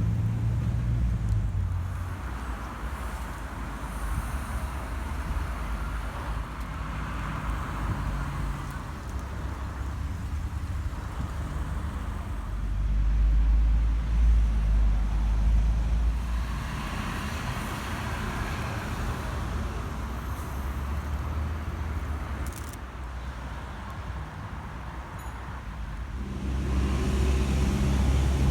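Road traffic: cars passing with a low engine rumble and tyre hiss that swell and fade several times as vehicles go by, the engine rumble loudest about halfway through and again near the end.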